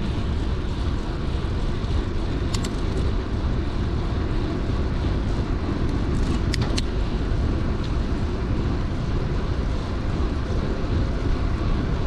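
Steady wind and riding rumble across a GoPro's microphone on a moving mountain bike, with a few sharp clicks about two and a half and six and a half seconds in.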